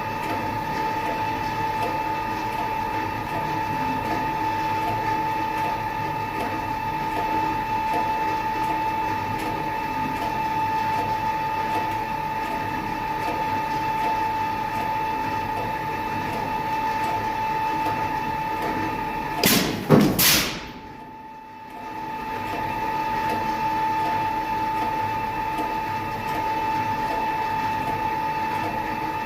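Sheet-metal press with a punch and die tool running with a steady machine whine. About twenty seconds in come two loud strokes as the press cycles, and the machine sound dips briefly after them.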